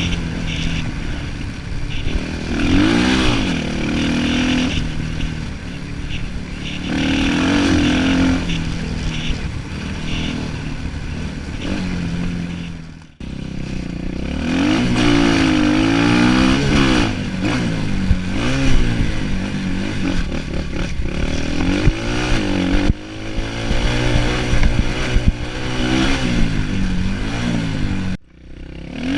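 Orion 250cc dirt bike engine being ridden, its pitch repeatedly rising and falling as the throttle is opened and closed through the gears. The sound drops out abruptly about halfway through and again near the end.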